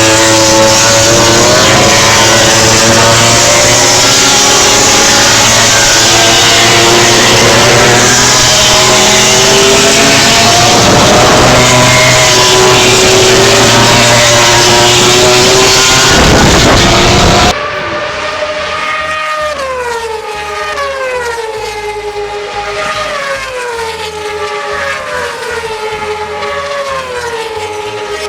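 High-revving racing engines at full throttle, loud and dense. About 17 seconds in, the sound cuts abruptly to a quieter single engine whose pitch swings up and down every second or two as the revs change through the gears.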